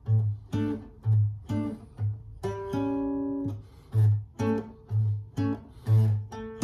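Acoustic guitar playing an instrumental passage: single plucked melody notes over a steady bass note about twice a second, with no singing.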